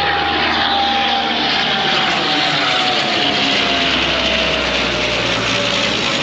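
Aircraft flying past: loud, steady engine noise with a whine that slowly falls in pitch.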